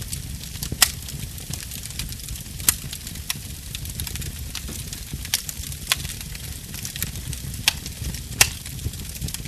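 Burning wood fire crackling, with frequent small sharp pops and a few louder snaps (about a second in, near three seconds, and near the end) over a steady low rumble.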